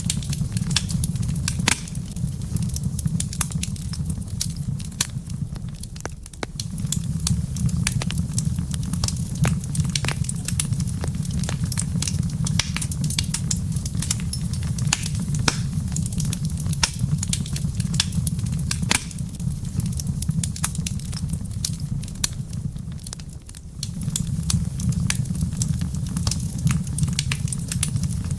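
Wood fire crackling, with frequent sharp pops and snaps over a steady low rumble that dips briefly twice.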